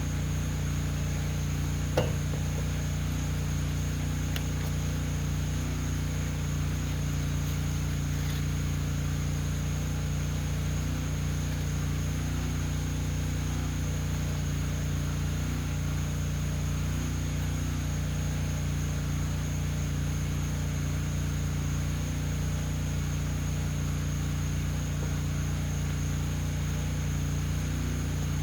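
A steady low motor hum, with a steady high insect drone above it and one sharp click about two seconds in.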